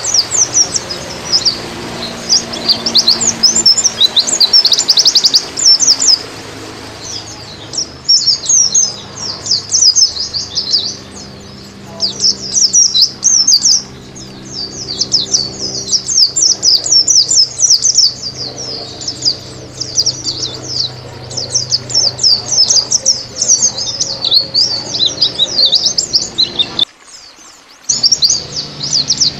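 White-eye (pleci, Zosterops) song: fast, high-pitched twittering phrases with short pauses between them, breaking off briefly about 27 seconds in.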